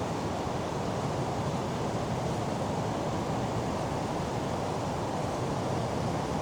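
Steady rushing noise of a waterfall close by, even and unbroken, heaviest in the low range.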